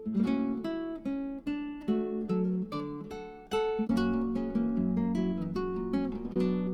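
Background music: acoustic guitar plucking and strumming a steady run of notes.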